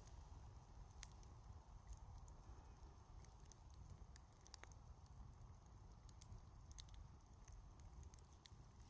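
Wood fire burning, crackling faintly with scattered sharp snaps and pops at irregular times, the loudest about a second in, over a low steady rumble.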